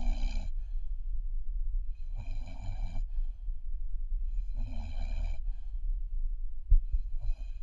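Newfoundland puppy snoring in its sleep, one snore about every two and a half seconds. A short low thump about two-thirds of the way through.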